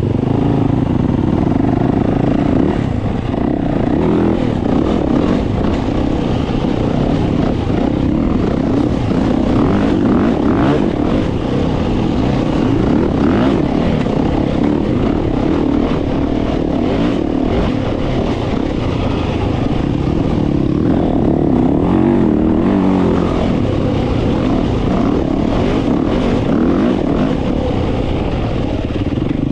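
Dirt bike engine running at a fairly steady throttle while riding trail.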